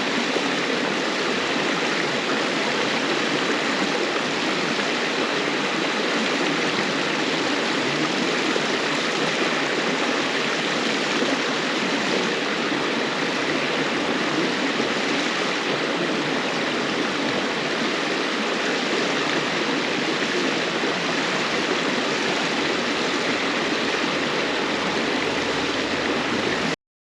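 River water flowing steadily over stones, an even rushing murmur that cuts off suddenly near the end.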